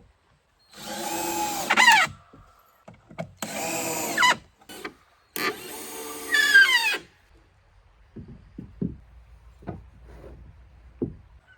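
Power drill running in three short bursts, its motor whine dropping in pitch at the end of each run, followed by a few light knocks.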